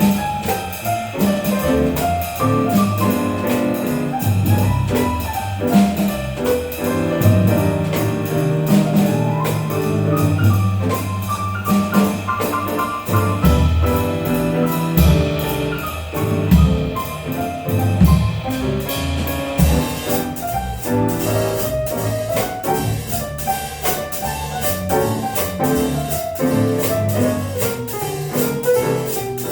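Jazz trio of piano, bass and drum kit playing together.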